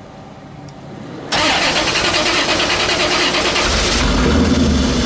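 1990 Corvette C4's L98 5.7-litre V8 cranked by the starter about a second in and firing, then settling into a steady idle a couple of seconds later. It is a start after the car has sat unrun for months.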